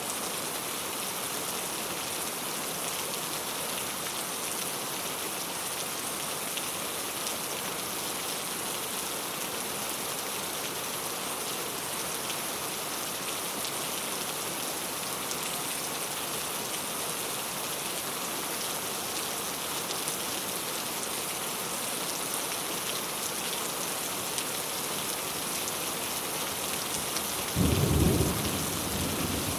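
Steady rain falling on a clay tile roof, with a short clap of thunder near the end, the loudest moment.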